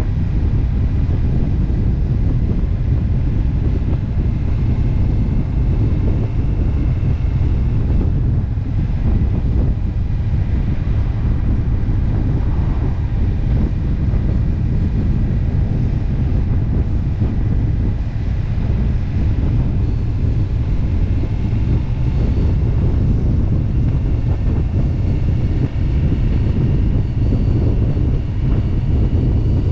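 Steady wind rush buffeting the microphone of a motorcycle riding at road speed, with the bike's engine running underneath without revving up or down.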